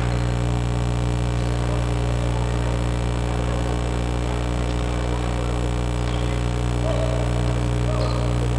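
Steady low electrical hum, with faint, indistinct gym noise beneath it.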